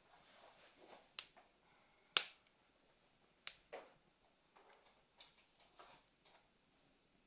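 Campfire crackling softly: scattered sharp pops from the burning wood, the loudest a little past two seconds in and another at about three and a half seconds, over a faint hiss.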